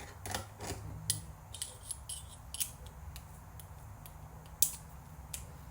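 Irregular small clicks and taps of a tool and metal and plastic parts being handled while taking apart a VCR's tape mechanism, with one sharper click near the end, over a steady low hum.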